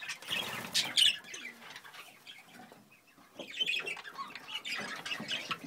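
Budgerigars chirping in short scattered calls, with a brief flutter of wings at the start.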